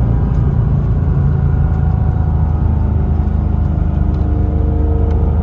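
Porsche Cayman S (987.1) flat-six engine running at a steady pace on the road, with a continuous low rumble of engine and road noise; the engine's pitch shifts slightly about halfway through.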